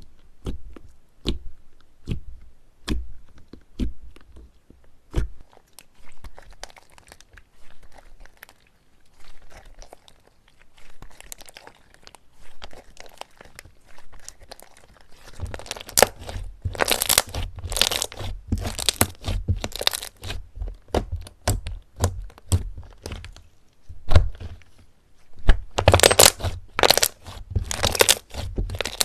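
Slime being worked by hand: sharp separate pops and clicks at first, then denser crackling and crunching that comes in loud bursts through the second half.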